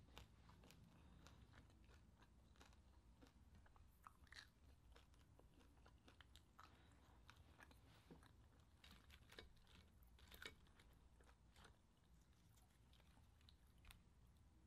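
Faint close-up chewing of crispy deep-fried chicharon bulaklak (pork mesentery), a run of small crunches and mouth clicks with a few louder crunches near the middle.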